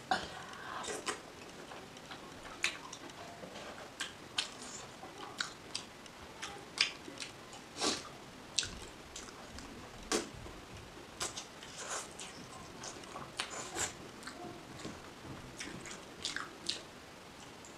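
A person chewing and eating soft fried and boiled egg with her fingers, with many short, irregular wet mouth clicks.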